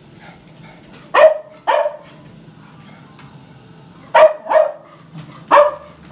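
Dog barking: five short, sharp barks, a pair about a second in, another pair about four seconds in, and one more near the end.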